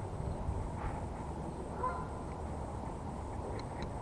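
Steady low outdoor background noise with one short bird call about two seconds in, and a run of quick light ticks starting near the end.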